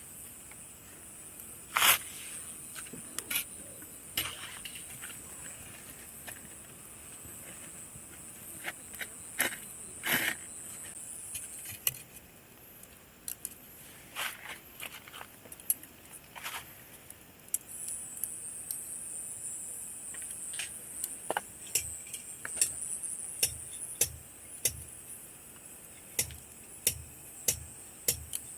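Campfire crackling, with irregular sharp pops of burning wood, over a steady high-pitched chorus of summer insects that fades for a few seconds midway.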